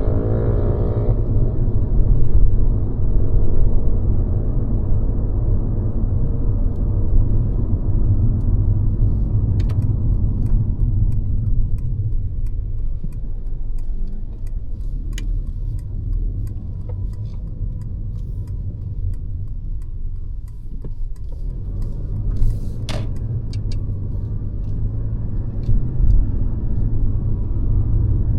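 Mercedes-Benz C-Class (W206) driving, a steady low engine and road rumble. There is a pitched engine note in the first second and a few sharp clicks along the way.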